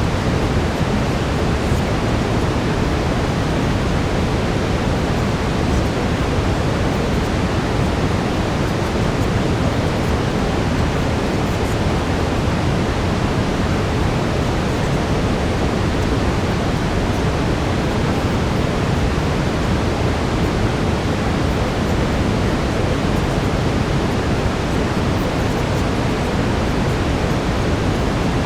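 Steady brown noise: an even, deep hiss, strongest in the low end and with no change in it.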